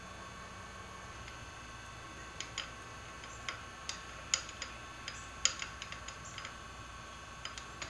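Light, irregular clicks and taps of small metal parts and hardware being handled while motor pads and washers are fitted to a router lift. The clicks start a couple of seconds in and come a few per second, over a faint steady high hum.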